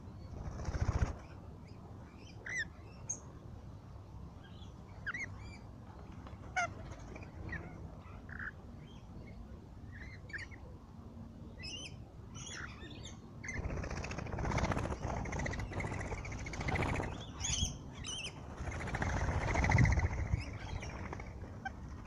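Wild birds chirping in short, scattered high notes, then louder and harsher bird sounds coming in waves over the last third.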